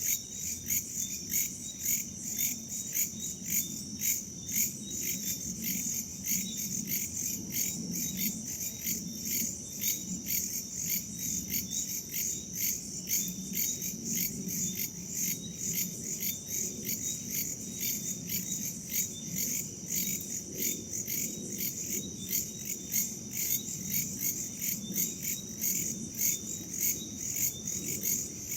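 Crickets and other night insects chirping in a dense chorus: a steady high trill with chirps pulsing in an even rhythm over it. A soft low rumble of wind runs underneath.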